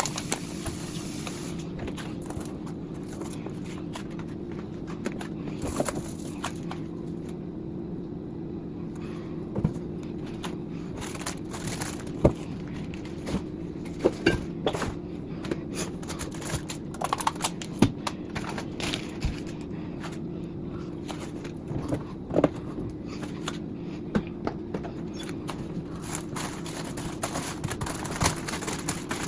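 Food containers, jars and bottles knocking and clattering at irregular intervals as a refrigerator is emptied, over a steady low hum.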